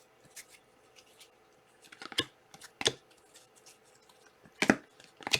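Trading cards and foil pack wrappers being handled: several short, sharp rustles and snaps, the loudest one about a second before the end.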